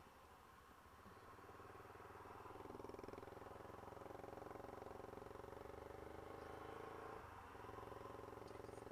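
Motorcycle engine running steadily at low throttle. It grows louder over the first two or three seconds and dips briefly about seven seconds in.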